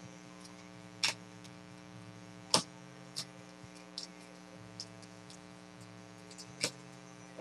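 Trading cards being handled: a few scattered light clicks and taps, loudest at about one and two and a half seconds in, over a steady electrical hum.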